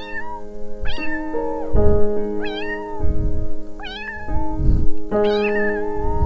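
A domestic cat meowing about five times in a row, each meow rising then bending in pitch, over background music with held notes.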